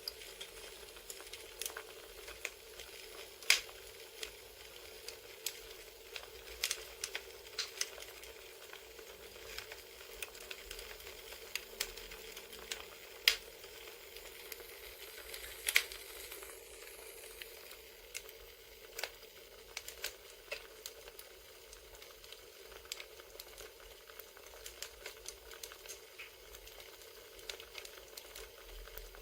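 Crackling campfire: irregular sharp pops and snaps over a steady low hiss, with a few louder pops about three and a half, thirteen and sixteen seconds in.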